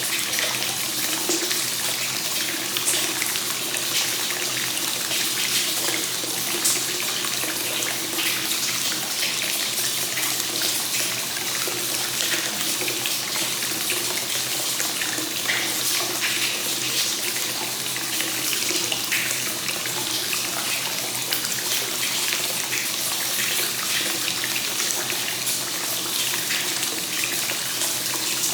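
Hot spring water pouring steadily from the source spout into a bath and splashing on the surface, with small irregular spatters in the continuous flow.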